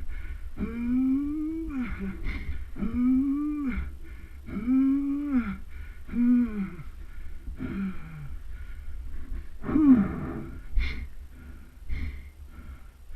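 A person groaning in pain after a dirt-bike crash: about six drawn-out moans, each rising and then falling in pitch, then ragged, gasping breaths. A low rumble of wind on the microphone runs underneath.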